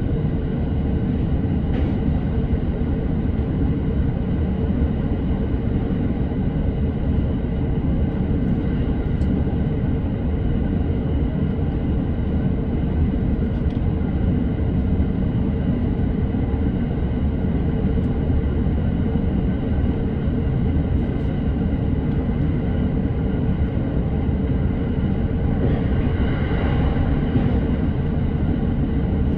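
Electric commuter train running at speed, heard from inside the car: a steady low rumble with a constant whine over it. About 26 seconds in, a brief swell of higher-pitched noise rises and fades.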